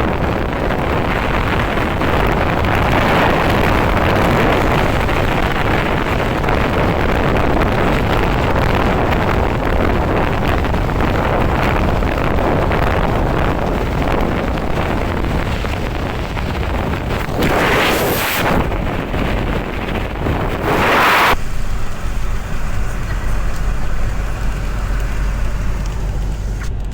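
Road and wind noise of a moving car, an even rushing, with two brief louder gusts. About three quarters of the way through the rushing drops away, leaving a steady low engine hum.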